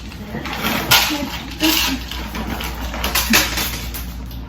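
Dishes and kitchen utensils being handled: a few sharp knocks and clinks, the loudest about a second in and again a little past three seconds, over a low steady hum.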